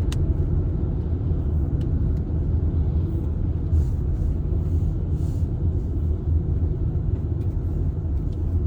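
Steady low rumble of a car driving along a road, heard from inside the cabin: engine and tyre noise at cruising speed.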